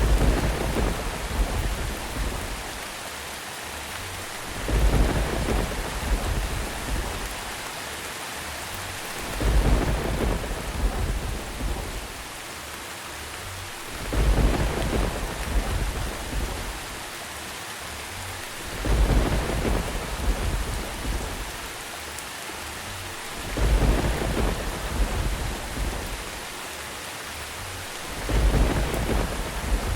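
Steady rain with rolls of thunder rumbling in about every five seconds, seven times, each swelling suddenly and fading over a couple of seconds.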